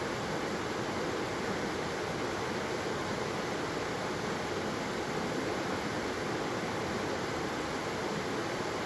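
Waterfall: a steady, unbroken rush of falling water with no changes in level.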